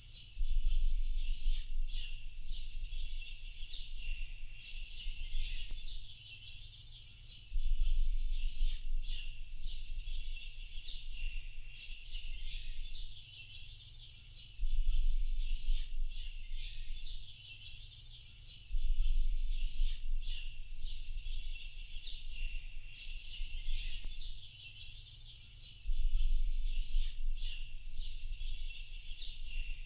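A dense chorus of many small birds chirping and twittering without pause. A low rumble cuts in suddenly five times, for a second or two each time, and is the loudest sound while it lasts.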